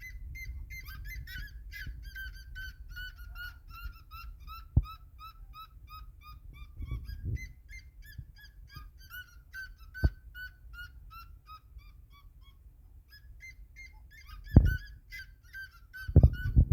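Birds calling in a long series of short, repeated honking notes, about three a second. A few sharp knocks sound in between.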